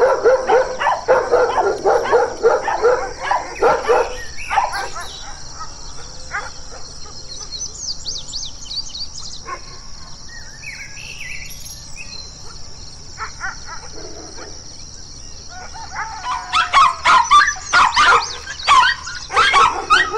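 Dogs barking: a German Shepherd barks rapidly and repeatedly for the first few seconds, then after a quieter stretch with a bird chirping, a small black-and-tan dog gives fast, higher-pitched barks near the end.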